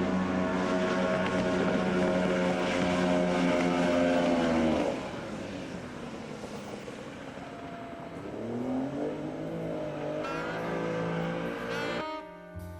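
Carniti racing outboard engine running with a drumming note, easing off about five seconds in and picking up again a few seconds later. Music comes in near the end.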